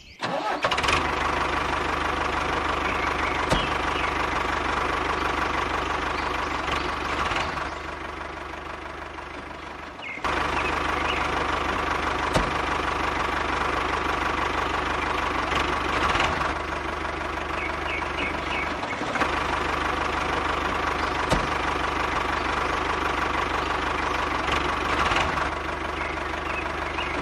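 Small engine of a DIY mini tractor running steadily with a knocking beat. It fades for a couple of seconds, returns abruptly about ten seconds in, and keeps running.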